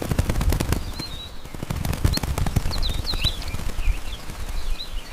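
A fast, irregular clatter of many small knocks, with short bird chirps over it.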